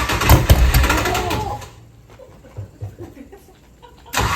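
Ford 363 Boss V8 cold-starting: it runs loudly for the first second and a half, falls to a much quieter, uneven sputter, then fires up loud again near the end.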